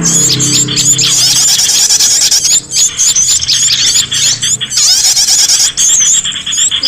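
Many small songbirds chirping and twittering in rapid, overlapping high-pitched calls and short trills: a bird-lure recording for calling back an escaped cage bird. A low hum underneath fades out within the first second.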